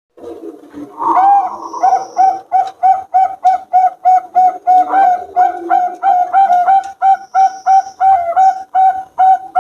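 Zebra doves (perkutut) cooing: a fast, even run of short repeated notes, about three a second, with a second, lower cooing beneath it through the first half. The sound cuts in after a brief gap at the start.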